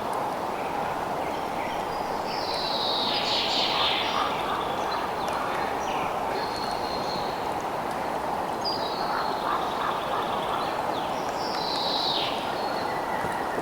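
Outdoor nature ambience: a steady even noise bed with high animal calls over it. Two prominent calls that fall in pitch come a few seconds in and near the end, with shorter chirps between.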